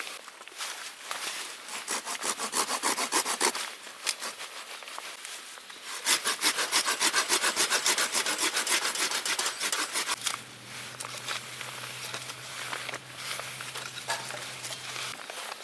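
Hand saw cutting through a piece of firewood in quick back-and-forth strokes, in two runs with a pause between; the second run is louder and faster, about five strokes a second.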